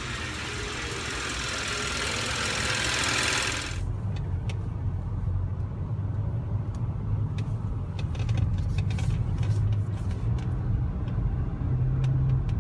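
Hyundai Sonata being driven with its newly repaired rod bearing. A rising rush of engine and road noise for the first few seconds cuts off suddenly. A steady low engine and road drone follows, heard inside the car, with a few faint clicks.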